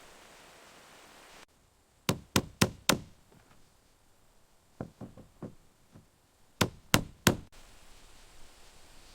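Hammer blows on timber in quick groups: four sharp strikes, four fainter ones a couple of seconds later, then three more.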